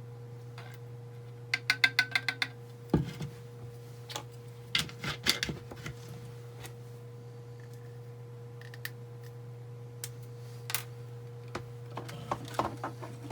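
Clicks and taps of small hard plastic parts and a syringe being handled on a workbench: a quick rattle of about ten clicks, then a knock and a few more scattered clicks, over a steady low hum.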